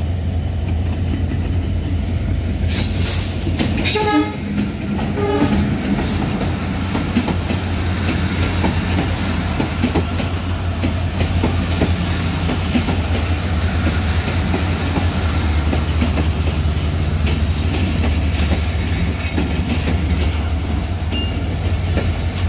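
Diesel locomotive and its passenger carriages running past close by: a steady low engine drone under continuous wheel clatter over the rail joints. A horn sounds briefly about four seconds in.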